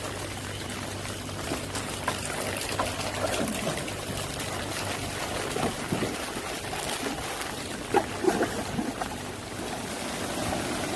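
Storm runoff pouring steadily into a farm drainage channel, a continuous rush of flowing water.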